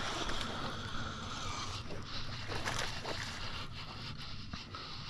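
Water and wind noise around a kayak, with several brief knocks or splashes in the middle.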